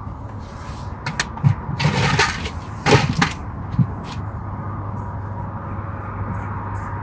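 Handling noises: a few sharp clicks, then short rustling and clattering about two to three seconds in and a single thump near four seconds, over a low steady hum.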